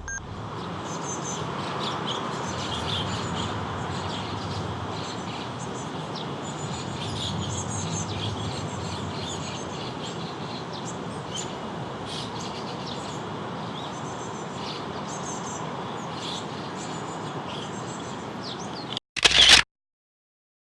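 Small birds chirping repeatedly with short high calls over a steady rushing background noise. Near the end a brief loud burst of noise is heard, then the sound cuts off suddenly.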